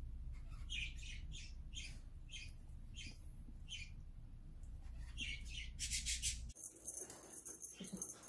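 A small bird chirping: a string of about seven short, high, wavering chirps roughly twice a second, then two more a second later. A short burst of hissy rustling follows near the end.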